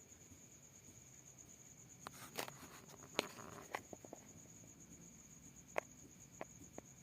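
A steady high-pitched trill, insect-like, runs throughout. Scattered sharp clicks and taps cluster around the middle, with a few more near the end.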